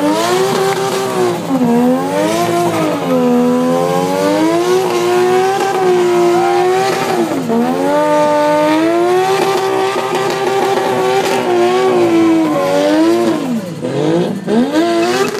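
Car engine revving hard during a burnout, held high and swinging up and down in pitch in long surges, with the driven tyres spinning on the pavement. The revs drop away and climb again several times, and the sound fades somewhat near the end.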